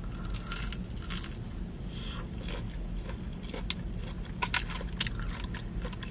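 Biting into and chewing a crispy breaded Korean cheese corn dog: irregular crackling crunches of the fried crust close to the microphone, over a low steady hum.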